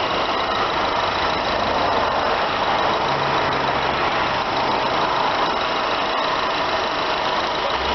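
2008 Honda Accord's 2.4-litre DOHC i-VTEC four-cylinder engine idling steadily under the open hood, sounding just like brand new.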